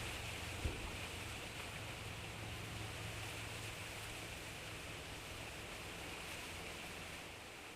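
Steady rushing ambient noise over a low hum, with one soft thump just under a second in; it eases off slightly near the end.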